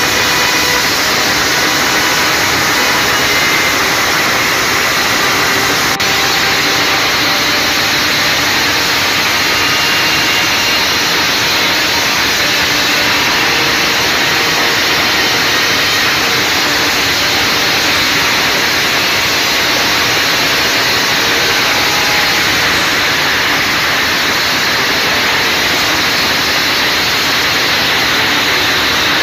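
Heavy rain pouring down, a steady loud rushing hiss.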